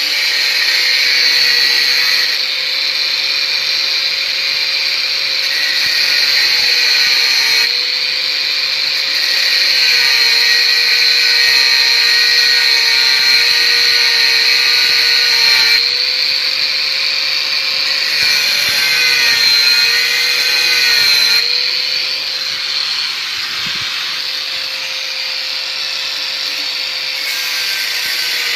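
Bosch GWS 6-100 4-inch angle grinder running with an abrasive cut-off disc, cutting steel: a steady high whine with a harsh grinding hiss. The whine's pitch dips slightly now and then as the disc is pressed into the metal, and the sound changes in stretches of a few seconds as the cut goes on.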